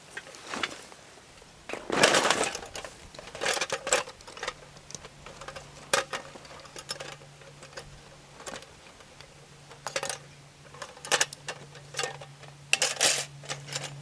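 A series of sharp clicks and knocks, like gear being handled, with a louder rustling burst about two seconds in and a steady low hum that comes in about four seconds in.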